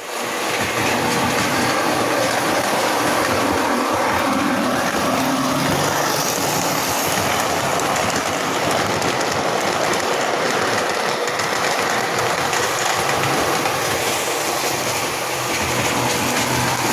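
Model train running along its track: a steady, continuous rattle of wheels on rail.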